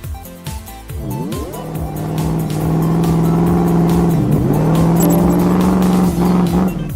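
Cartoon monster truck engines running and revving, with pitch swooping down and back up about a second in and again about four seconds in, over background music.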